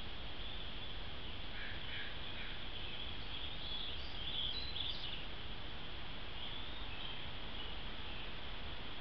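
Steady background hiss with faint, high bird chirps, clustered from about one and a half to five seconds in and again briefly around seven seconds in.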